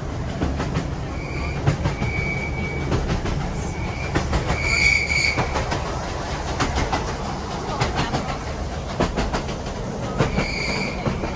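Train running along the track, with a steady low rumble, wheels clicking over rail joints, and short high-pitched wheel squeals several times, the longest about five seconds in.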